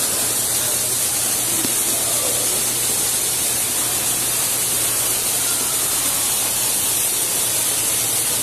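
Heavy thunderstorm rain pouring steadily, with water streaming off a roof edge in a sheet, a constant hiss.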